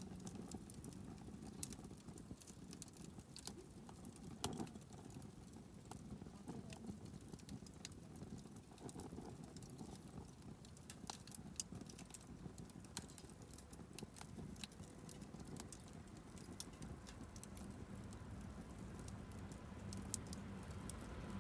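Wood fire crackling faintly, with scattered sharp pops and snaps over a low steady hiss.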